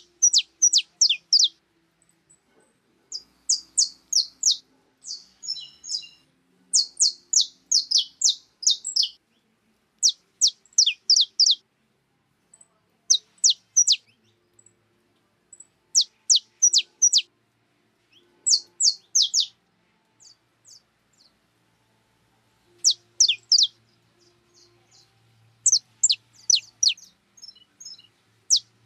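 Small songbird chirping in quick bursts of three to six sharp, down-slurred notes, a burst every couple of seconds, with short gaps between.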